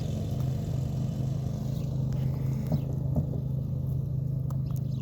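A steady low mechanical hum, like a motor or engine running. A few faint crunching clicks about halfway through and near the end come from a dog chewing a dove's bones.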